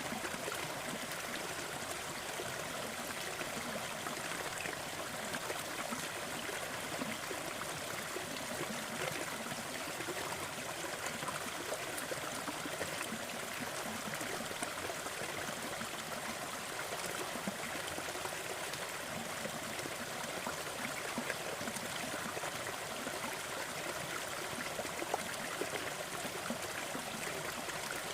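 Steady hissing noise with faint, scattered crackles and pops, as of a fireplace fire burning.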